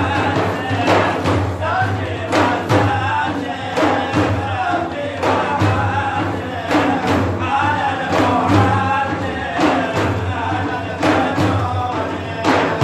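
Religious praise song (madih) sung by male voices in a chanting style, over regular percussion beats.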